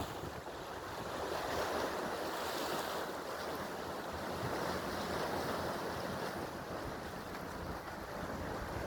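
Sea waves and wind: a steady rush of water noise that swells and eases slowly over a few seconds.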